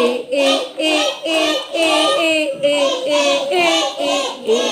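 Young children singing a phonics letter-sound song together, a steady rhythm of short sung syllables.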